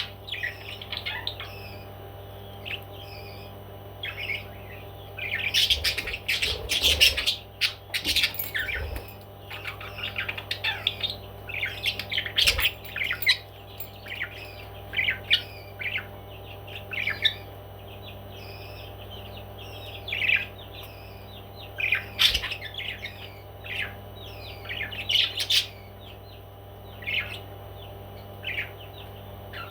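Pet parrots chirping and squawking in short, repeated calls, with several clusters of louder, harsh squawks, over a steady low hum.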